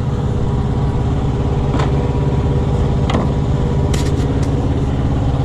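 Semi-truck diesel engine idling steadily with a low, even pulse, with a few light clicks over it.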